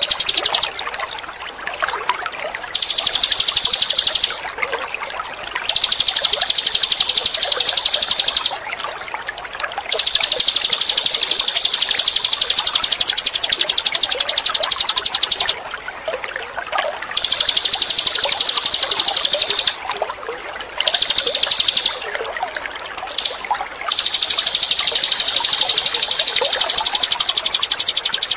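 Ninin eurih songbird singing a rapid, high-pitched buzzing trill in long bouts of several seconds, separated by short pauses, over a steady trickle of running water.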